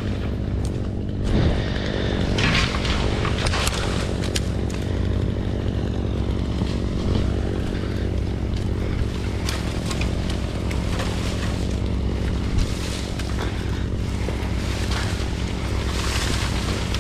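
Engine running steadily, with scattered clanks and scrapes over it.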